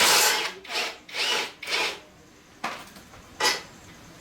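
Scraping strokes of a hand tool worked back and forth over a part: four rough strokes in the first two seconds, then two short ones later.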